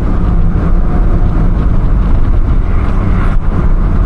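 Audi S3 8P's 2.0 TFSI turbocharged four-cylinder with an aftermarket downpipe, pulling hard under acceleration. A little over three seconds in, a very quick S-tronic dual-clutch upshift briefly interrupts the engine note before it pulls again.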